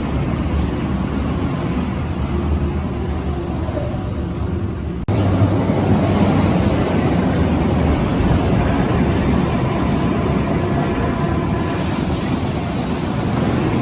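Berlin U-Bahn large-profile train running on the track, a steady rumble of wheels and motors. The sound breaks off for an instant about five seconds in and comes back louder, and a high hiss joins near the end.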